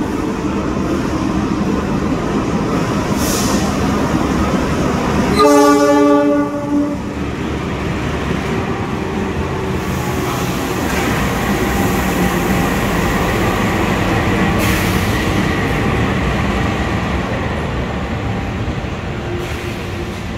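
A diesel-electric locomotive running as it brings a passenger train along the platform. About five seconds in, it gives one horn blast of about a second and a half, the loudest sound.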